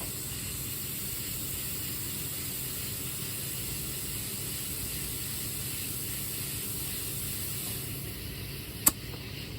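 Compressed air hissing steadily into a tire through an air chuck as it is inflated. The hiss eases about eight seconds in and is followed by one sharp click.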